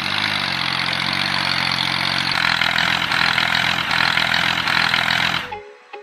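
Engine of a mini DIY tractor running steadily after a short rise in pitch at the start, with a loud hissing, clattering layer over it. It cuts off abruptly near the end.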